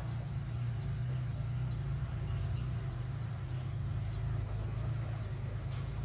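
Heavy diesel earthmoving machinery running steadily, a continuous low engine rumble, with a faint click near the end.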